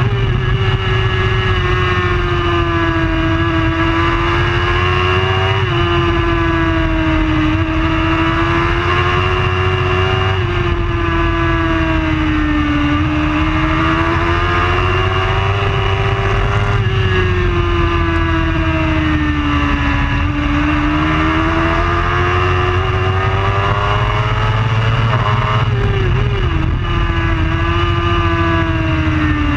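Racing superbike engine running hard at high revs throughout, its pitch sinking and rising in long slow sweeps with a few abrupt jumps, over a steady low rumble.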